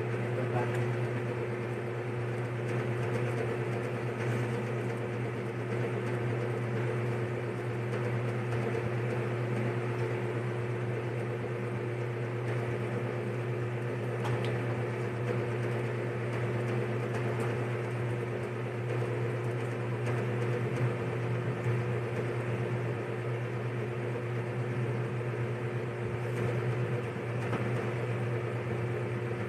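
Steady machine hum, unchanging throughout, with a low drone and a fixed higher tone over a light even hiss.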